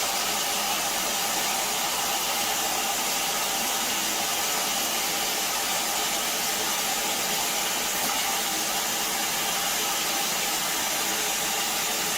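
Steady, even hissing rush of noise with a faint hum in it, unchanging throughout.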